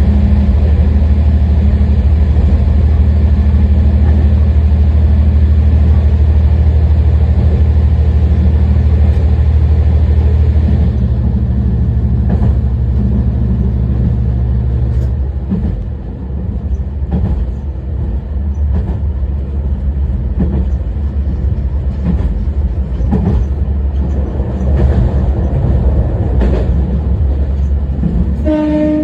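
Diesel railcar Haimo 295-617 running under power with a steady engine drone that eases off about a third of the way in and falls further soon after, as the car coasts. Wheels then click and knock over the rail joints, and a short horn blast sounds at the very end.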